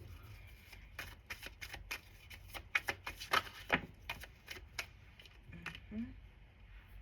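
Tarot cards being shuffled and handled: a quick run of papery snaps and clicks from about a second in until about five seconds in.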